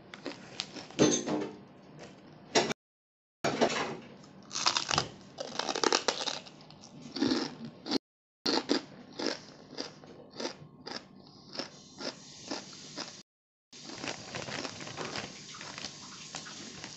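Crispy chicharon (fried pork rind) being bitten and chewed close to the microphone: irregular crunching and crackling, cutting out to silence three times.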